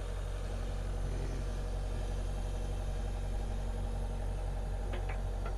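An engine idling steadily, with a few light knocks about five seconds in.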